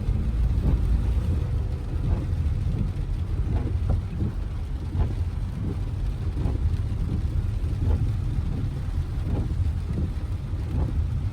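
Car driving through about eight inches of standing floodwater, a steady low rumble of engine and tyres in water with faint scattered splashes.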